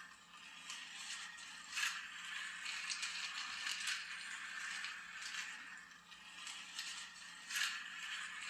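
Plastic toy race car and track set rattling and scraping, a steady light clatter with sharp clicks now and then, two louder ones about two seconds in and near the end.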